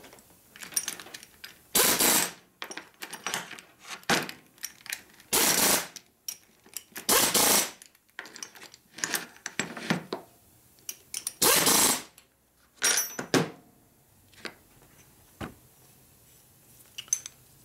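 Short loud bursts of a workshop tool, each about half a second long and four of them the loudest, with sharp clicks and knocks of small metal parts being handled in between, during bench work on a Harley-Davidson Panhead engine's rocker arms.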